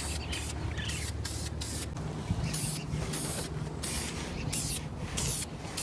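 Paint being sprayed in about a dozen short hissing bursts, over a low steady rumble.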